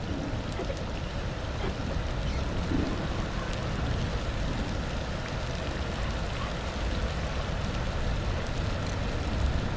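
Steady rain with wind rumbling on the microphone, and faint scattered raindrop ticks.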